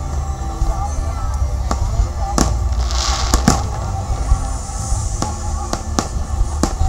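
Aerial fireworks going off in a steady run of sharp bangs, roughly one every half second to a second. A crackling hiss from a burst comes about three seconds in. Music plays underneath.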